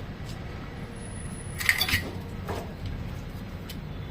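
Freshly rebuilt Greaves-Lombardini single-cylinder diesel engine of a Royal Enfield Diesel Bullet running steadily on its first start. A sharp metallic clink comes about a second and a half in.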